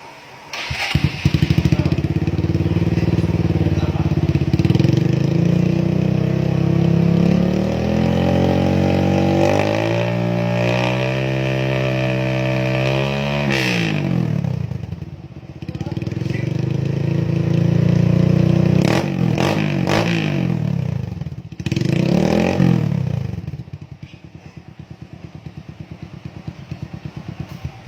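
Yamaha Verza's single-cylinder four-stroke engine running through an RKS racing exhaust: it idles, is revved up in a long steady climb that drops away sharply about halfway through, is revved again and blipped once more, then settles back to an even idle near the end. The sound is loud.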